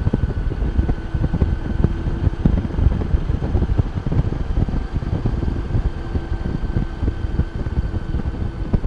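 Wind buffeting the microphone of a Honda Goldwing motorcycle rider at road speed, in constant low gusts. A faint steady hum from the bike runs under it.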